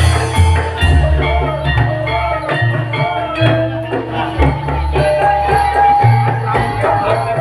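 Live ensemble music: drums beating a repeated pattern under jingling percussion and held melodic notes.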